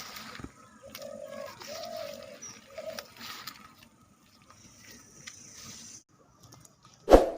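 A bird cooing: three low, held calls between about one and three seconds in, over a faint hiss. Near the end a single loud, sharp knock.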